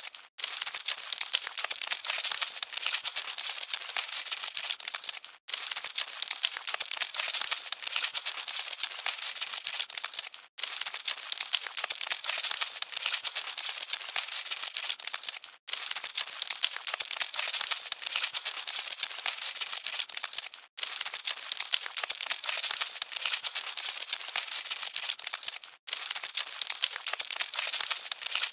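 Cockroaches scuttling: a dense, fine crackling rustle that repeats as a short loop, broken by a brief silent gap about every five seconds.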